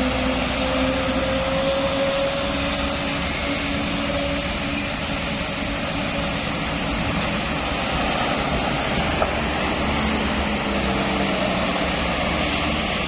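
Vehicle engines running steadily over a constant rush of noise, one engine tone rising slowly in the first few seconds, with a single short tick about nine seconds in.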